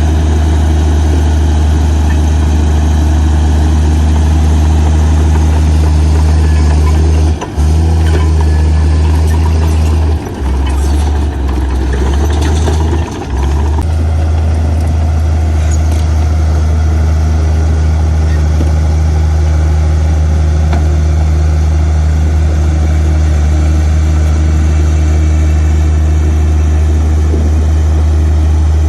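Heavy diesel earthmoving engine running with a steady low drone, briefly dipping in level three times in the first half.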